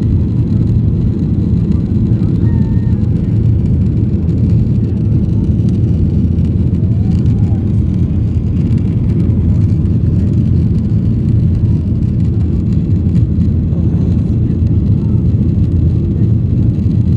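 Boeing 737 jet airliner engines at takeoff power, a steady loud low rumble that holds evenly throughout.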